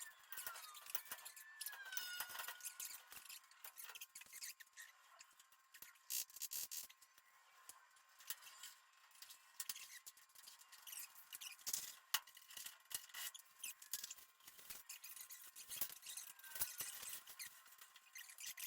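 Faint, irregular clicking and ticking of hand work on metal garage door hardware, with a few short squeaky chirps in the first few seconds.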